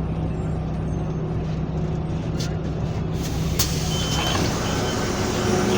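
Metro bus engine running steadily, with the road and engine noise growing louder about halfway through and a short high beep around four seconds in.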